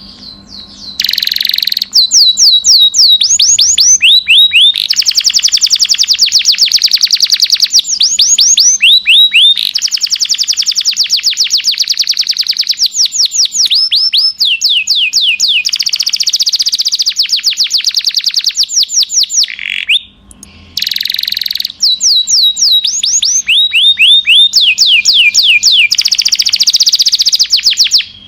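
Domestic canary singing a long song of fast trills: runs of rapid, evenly repeated notes, many sweeping down in pitch, with a short break about twenty seconds in.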